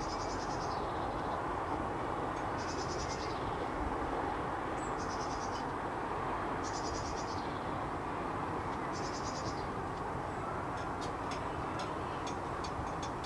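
A small songbird singing a short, high trill five times, about every two seconds, each phrase dropping a little at its end, over a steady background rush. A run of faint clicks comes near the end.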